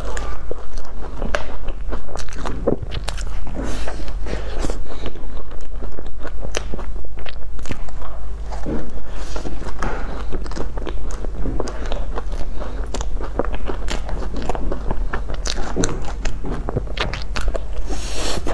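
Close-miked chewing of crisp-topped soft bread buns, with wet mouth sounds and many small crunchy crackles, and a bite into a cream-filled bun near the end.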